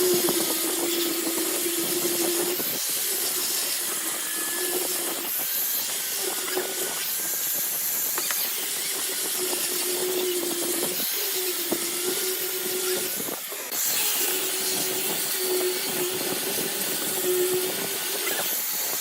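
Wood lathe spinning a workpiece while a turning tool cuts it: a steady hiss of shavings over a hum that drops out and comes back every couple of seconds as the tool is moved along.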